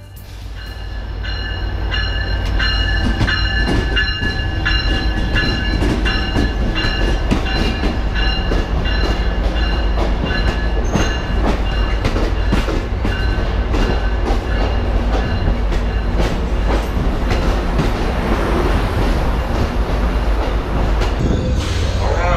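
Amtrak passenger cars rolling slowly past at close range: a heavy low rumble, wheels clicking over rail joints, and a steady high-pitched wheel squeal. The sound swells over the first two seconds, then holds.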